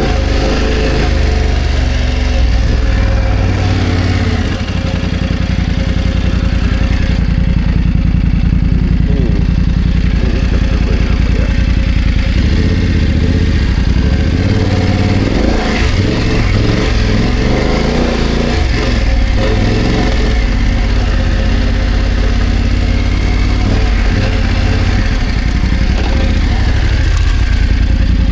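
BMW F900GS parallel-twin engine running at off-road pace, its note rising and falling several times with the throttle, with scattered knocks and rattles.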